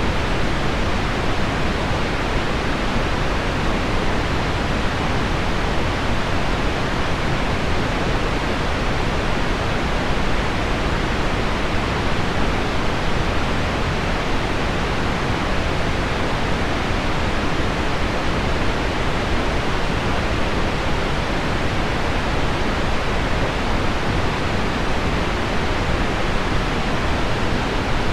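Heavy rain on window glass blended with a low pink-noise bed: a steady, even hiss that does not change, with no single drops or other events standing out.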